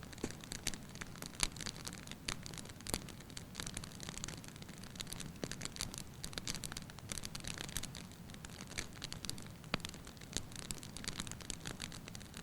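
Wood fire burning in a fireplace: frequent irregular crackles and sharp pops from the logs over a low steady rumble of the flames.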